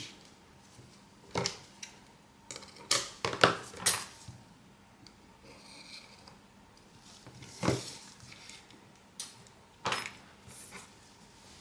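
Small metal repair tools and parts clicking and clinking against a hard work surface: scattered sharp taps, a cluster of them around three to four seconds in and more near eight and ten seconds.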